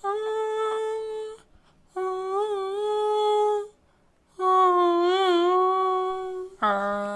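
A voice humming a tune in long held notes with a slight waver. Three notes sit on about the same pitch, and a lower note comes near the end.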